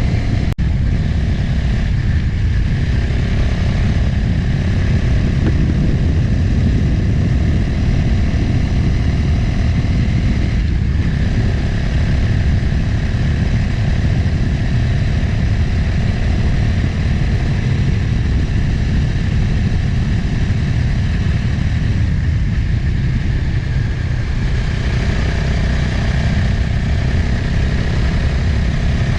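Motorcycle engine running at a steady cruising speed on the road, its engine note mixed with heavy wind noise.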